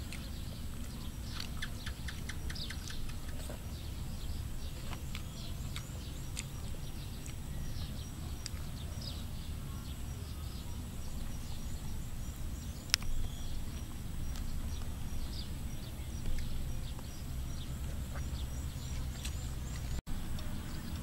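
Outdoor ambience: small birds chirping on and off over a steady low rumble, with one sharp click about two-thirds of the way through.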